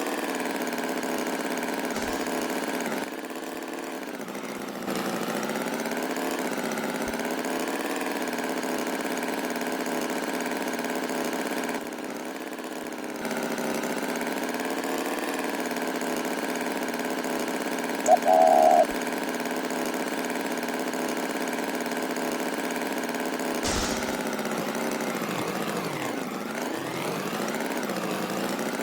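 An engine running steadily, its pitch wavering slowly up and down, with a short loud beep about eighteen seconds in.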